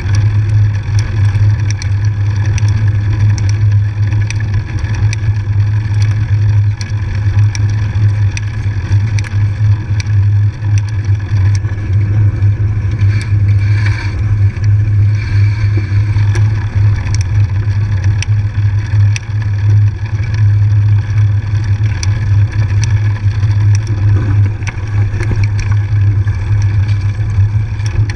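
Steady low wind rumble on the microphone of a moving bike ride, with light scattered clicks and rattles from the bike on the trail.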